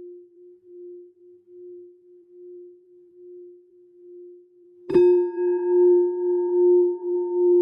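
Singing bowl ringing with a steady, pulsing hum, then struck again about five seconds in. The strike brings a louder ring with bright overtones that fade quickly, while the deep tone keeps ringing and wavering.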